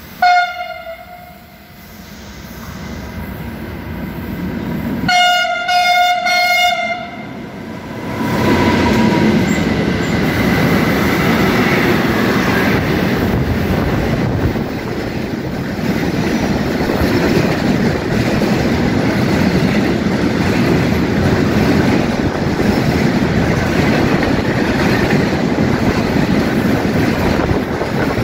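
Freight train approaching and passing: the locomotive's horn sounds a short blast at the start and a longer one of about two seconds around five seconds in. From about eight seconds on, the loud, steady rumble and rattle of the wagons rolling by on the rails.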